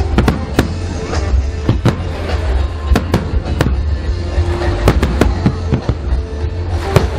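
Fireworks display going off: many sharp bangs and crackles at irregular intervals, several a second at times, over a continuous deep rumble.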